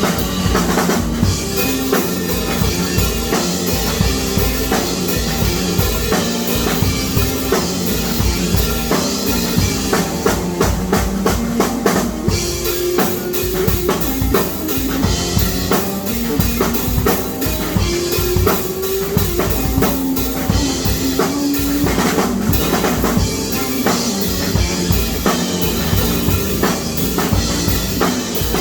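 Drum-heavy music: a drum kit played in a fast, busy pattern of kick, snare and cymbals, with a pitched line moving underneath.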